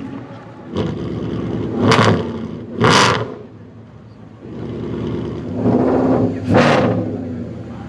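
Maserati Mostro Zagato's V8 engine revving up and down: two sharp loud rises about a second apart, a brief drop, then another climb to a peak near the end.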